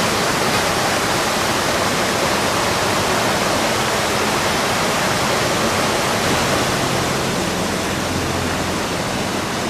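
Waterfall: a steady, even rush of cascading water.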